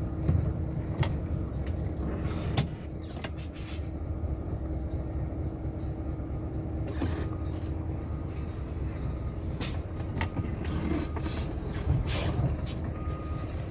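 Isuzu dump truck's diesel engine running steadily, with a steady hum above the rumble and scattered short clicks and brief hisses.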